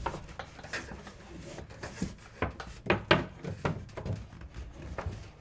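Handling noise of PEX A tubing being bent and pushed through holes in wooden studs: a string of irregular light knocks, clicks and scrapes.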